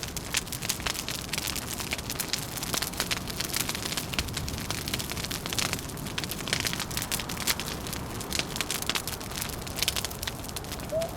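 Wood fire crackling: dense, irregular small pops and snaps over a steady low background rumble.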